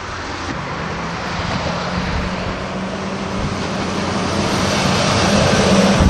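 A motor vehicle drawing nearer, its engine hum and rushing noise building steadily to the loudest point near the end.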